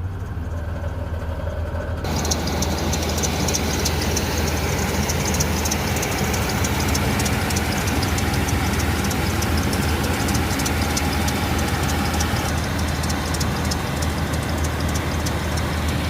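1998 GMC's 4.3-litre V6 idling steadily after a cold start. About two seconds in the sound becomes a little louder and brighter, with a fast, light ticking over the low hum.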